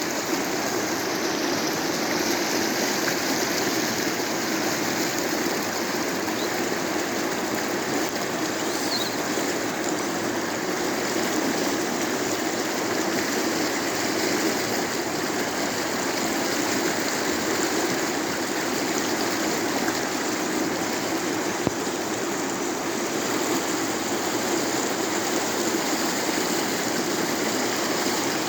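Rain-swollen running water rushing steadily, with no let-up.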